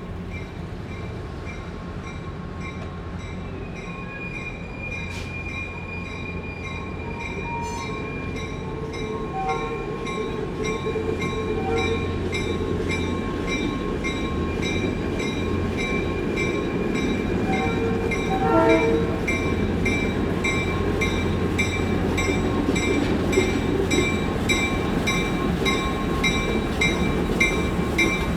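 Diesel train running and drawing nearer, its engine rumble growing louder, while a bell rings over and over at about two strokes a second.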